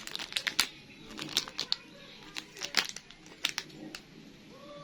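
Handling noises: a run of irregular sharp clicks and crinkles.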